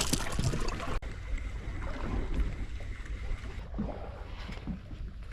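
Ambient noise aboard a small boat at sea: a steady low rumble under wind and water noise, changing abruptly about a second in.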